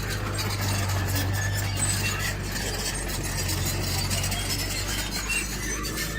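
Diesel engine of heavy earthmoving equipment running steadily, with repeated high squeaks and metallic clinks from the working machine.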